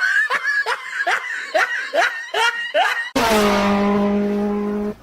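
Laughter in quick rhythmic bursts, about three a second. A little after three seconds in, a loud steady held tone breaks in suddenly and lasts nearly two seconds.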